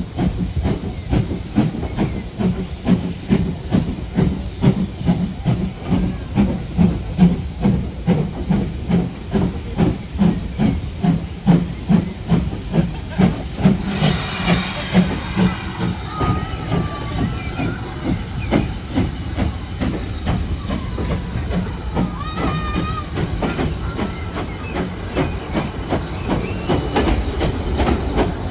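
Steam locomotive working under power, a GWR 5600 class 0-6-2 tank engine, its exhaust beats coming steadily at about three a second. About halfway in, a burst of steam hiss rises over the beats, which then carry on more softly, with a few brief thin squeals later.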